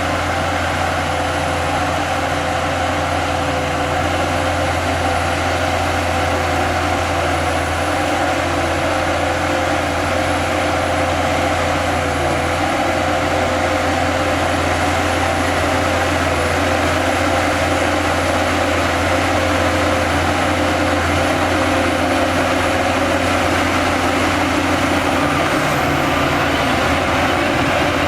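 Heavy diesel earthmoving machinery running steadily, a constant low engine drone with no breaks.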